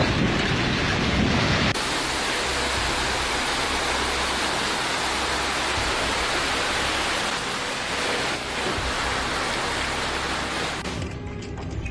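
Wind buffeting the microphone with a low rumble, then an abrupt cut about two seconds in to a steady, dense hiss of storm rain or rushing water, which thins out near the end.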